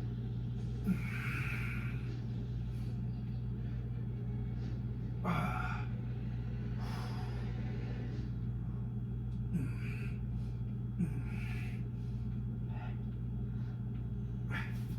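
A steady low hum with a handful of short breathy or rustling noises scattered through it.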